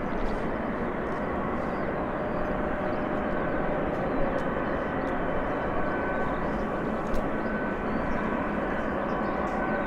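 Jet airliner engines running steadily: an even rush of noise with a faint high whine in it.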